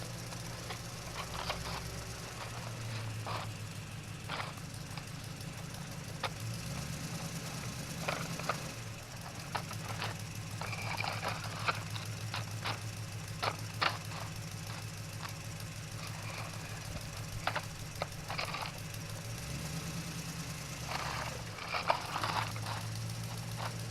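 A steady low motor hum that dips and returns a few times, with many short clicks and knocks scattered over it.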